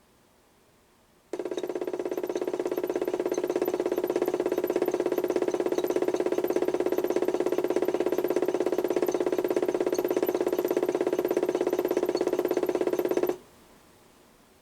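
Modified toy washing machine's HUSTOO 775 DC motor, PWM-driven, running at a steady speed with a humming whine for about twelve seconds, starting and cutting off abruptly.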